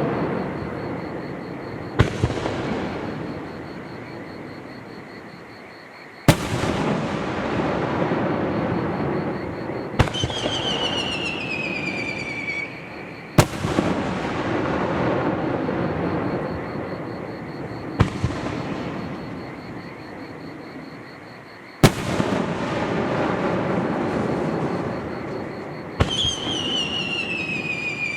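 Aerial fireworks shells bursting about every four seconds, each sharp boom trailing off in a long rumbling echo off the surrounding mountains. Twice a descending whistle follows a burst.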